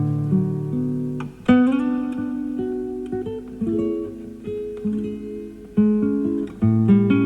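Classical guitar played live: plucked notes and chords ring and die away, with a sharply struck chord about one and a half seconds in. It is heard off a cassette tape recorded from an FM broadcast.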